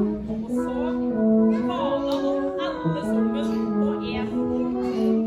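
Brass quartet playing a slow passage of held chords, the notes changing about once a second.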